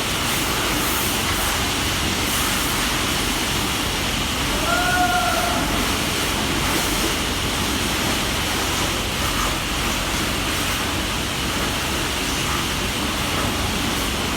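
Steady rush of water spraying at a truck wash, with a brief high tone about five seconds in.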